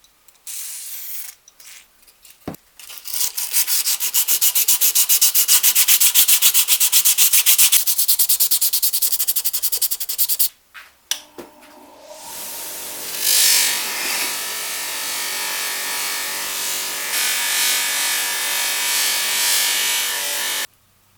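Metal being sanded by hand with rapid, even back-and-forth rubbing strokes. Then a small power tool runs steadily with a hum under the grinding noise and stops suddenly near the end.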